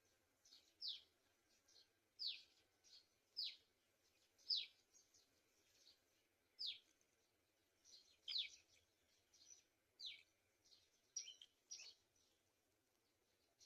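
Bird calls: a run of short, high, thin notes, each sliding sharply down in pitch, coming about one or two a second over a faint background hiss.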